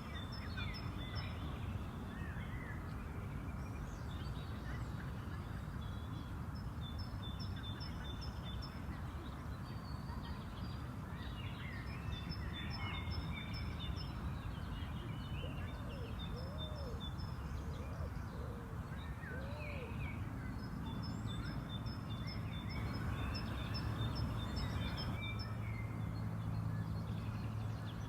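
Outdoor park ambience: songbirds chirping in repeated short trills over a steady low rumble. A few low, arching notes come around the middle, and a low hum grows in near the end.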